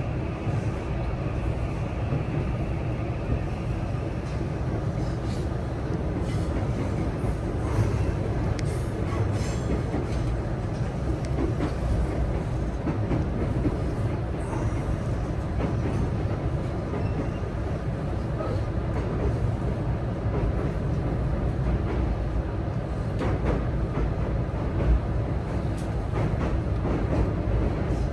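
JR West 323 series electric train running between stations, heard from inside the passenger car: a steady low rumble of wheels on rail, with scattered short clicks.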